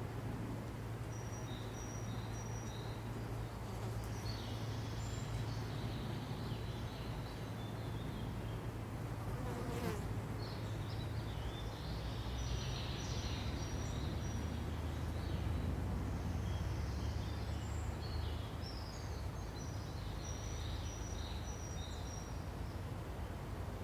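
A flying insect buzzing steadily close by, with small birds chirping and twittering in short high phrases in the background.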